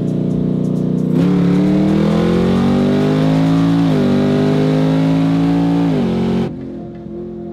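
Supercharged 6.2-litre LT4 V8 of a third-generation Cadillac CTS-V with open exhaust dumps, heard from inside the cabin: running steadily, then going to full throttle about a second in and climbing in pitch. The pitch drops once at an upshift near four seconds in and climbs again, then the engine backs off sharply about six and a half seconds in.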